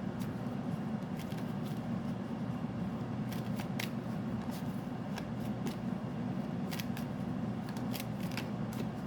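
Tarot cards being shuffled and handled: irregular light snaps and flicks of card stock over a steady low hum.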